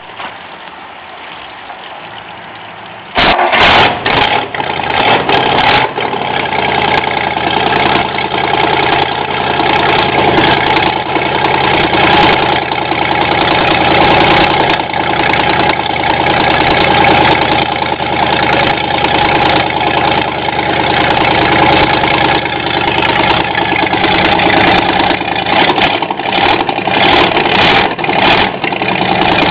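1954 Ford 239 cubic-inch Y-block V8 starting about three seconds in, then running steadily at idle.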